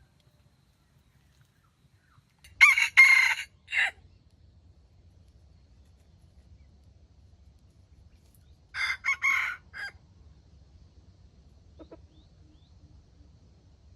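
Rooster crowing twice, a few seconds apart, each crow short and broken into several clipped parts.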